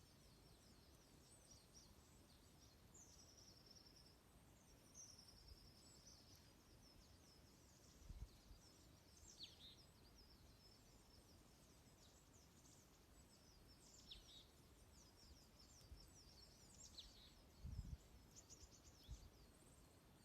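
Small songbirds chirping and twittering faintly, with many short high calls and a couple of longer trills a few seconds in. Two soft low thumps come about eight seconds in and near the end.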